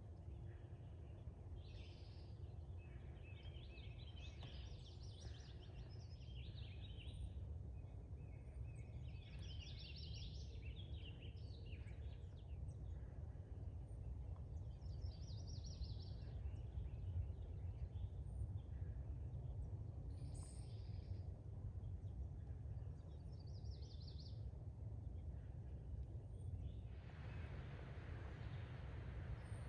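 Woodland birds singing and chirping in short scattered phrases over a steady low rumble; near the end a broad rushing hiss comes in.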